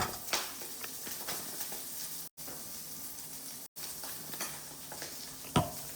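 Meat sizzling as it fries in a pan: a steady sizzle that cuts out briefly twice in the middle.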